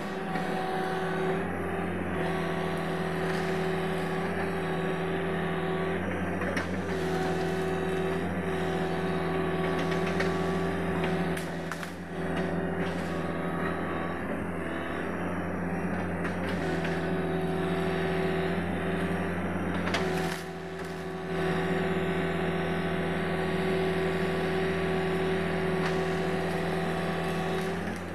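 Sany SY75C excavator's diesel engine running steadily under working load, with the sound dipping briefly twice, once near the middle and once about two-thirds of the way through.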